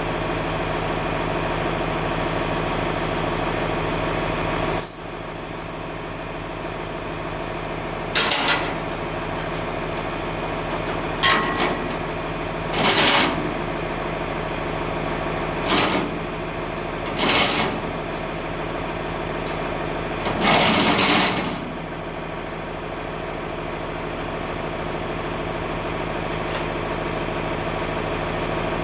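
An engine runs steadily, its sound dropping a step about five seconds in. Six short, loud bursts of hiss break in between about eight and twenty-one seconds in, the longest lasting about a second, while a 2,640-pound engine block is being lifted.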